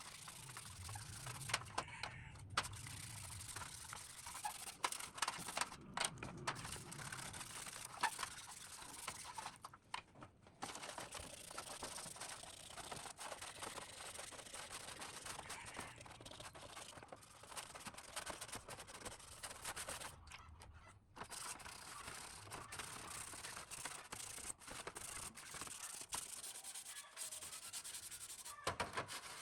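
Steady abrasive rubbing and scraping on a part, as in hand sanding or scrubbing off rust, with scattered light clicks and two short pauses, about ten and twenty seconds in.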